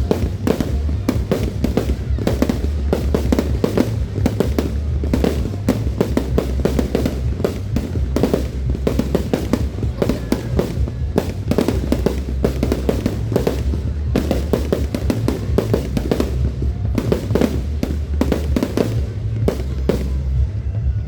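Fireworks crackling continuously, a dense run of sharp pops many times a second, over a steady low rumble.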